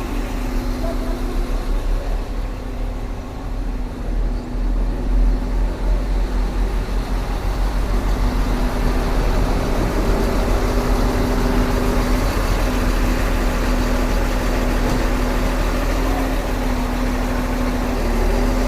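Heavy diesel engine running steadily with a low rumble and a steady hum, growing louder about six seconds in.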